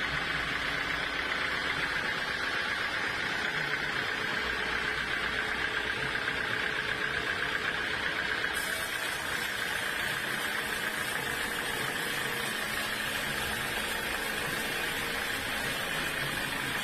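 Sawmill machinery running steadily: an even mechanical hum with a constant high whine above it.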